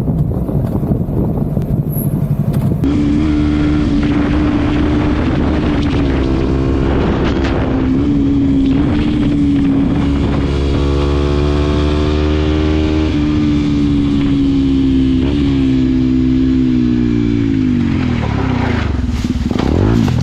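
Motorcycle engine running at a steady cruising speed, its note wavering slightly with the throttle, then dropping in pitch near the end as the bike slows.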